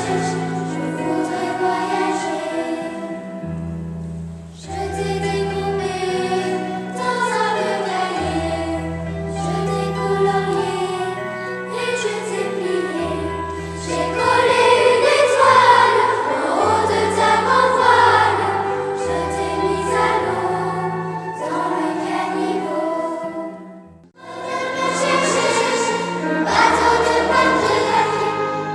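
Music: choral singing over sustained low bass notes, with a brief pause about 24 seconds in.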